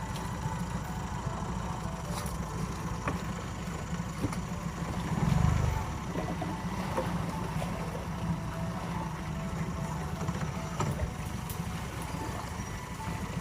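Fishing boat's motor running steadily while under way, a low continuous rumble, with a brief louder low surge about five seconds in.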